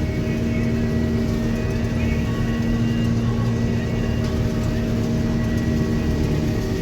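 Combine harvester running steadily while harvesting soybeans: a constant engine and machinery drone with a steady hum that does not change.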